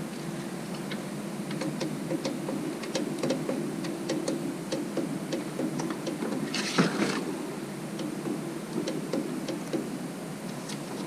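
Diesel heater fuel dosing pump ticking with sharp clicks as it primes, over a steady low hum. A brief rustle about two-thirds of the way through.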